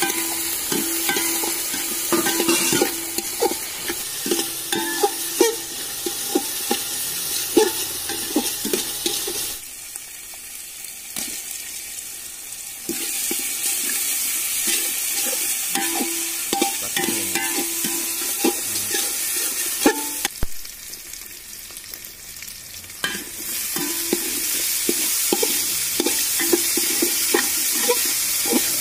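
Onion and spice masala frying in oil in an aluminium pot, sizzling steadily while a metal spatula stirs and scrapes it with frequent clinks against the pot. The sizzle falls away twice for a few seconds.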